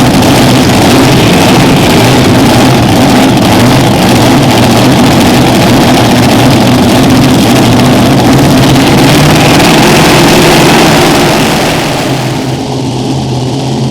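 An unlimited modified pulling tractor's engines running flat out, very loud, with a heavy low drone under a dense blare. About twelve seconds in the sound drops and turns duller.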